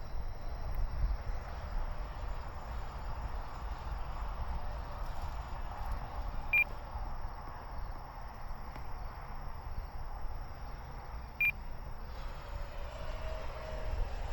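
E-flite F-16 70 mm electric ducted-fan jet flying at a distance, a steady rushing whine under low wind rumble on the microphone, with a faint tone rising in near the end as it comes closer. Two short high beeps sound about five seconds apart.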